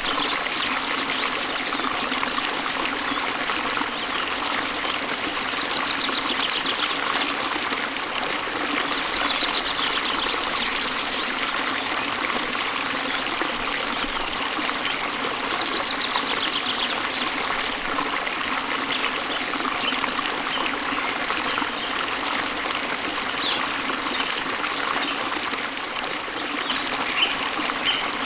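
Steady rushing and trickling of a waterfall and stream. Faint, fast bird trills rise above it a few times, and there are a few short chirps near the end.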